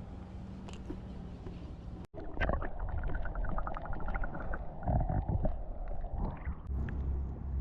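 Water sloshing against a kayak and wind rumbling on the microphone, with scattered knocks and, about a third of the way in, a quick run of evenly spaced ticks.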